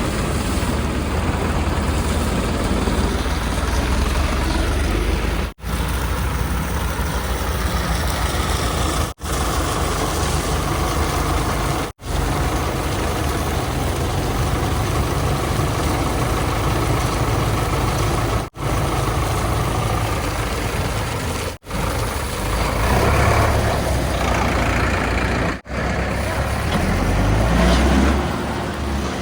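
Diesel engines of heavy earth-moving vehicles running and idling steadily, broken by several abrupt short gaps. The engine noise swells louder twice near the end.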